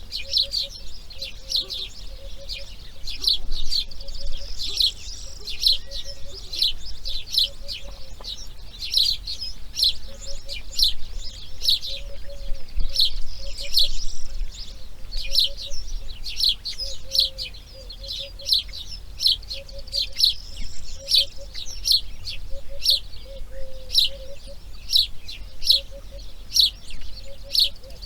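Birds chirping: sharp, high chirps repeat about twice a second, over a softer, lower call made of short notes in quick runs.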